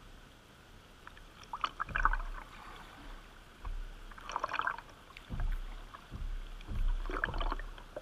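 Kayak paddle dipping and splashing in river water, about three strokes a couple of seconds apart.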